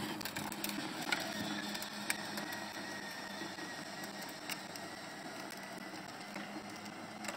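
Electric motor of a battery-powered ride-on toy truck whirring steadily, with a few light clicks.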